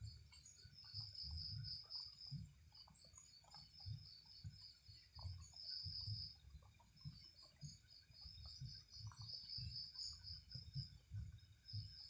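Night insects, crickets or similar, trilling in a fast, steady pulse, with an irregular low rumble underneath.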